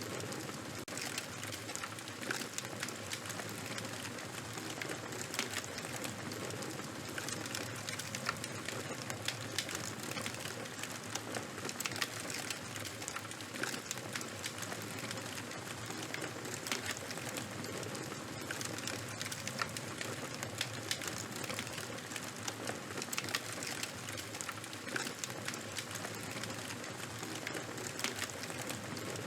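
Charcoal and wood fire crackling: a steady hiss with many small, sharp pops scattered unevenly throughout.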